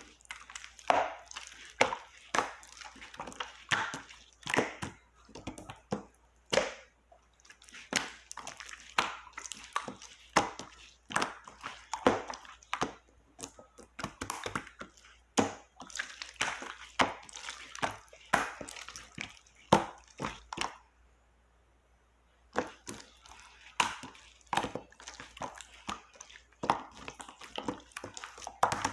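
Clear slime being pressed and squished by hand, giving a quick, uneven run of sticky pops and clicks from trapped air. The sound stops for about two seconds late on, then resumes.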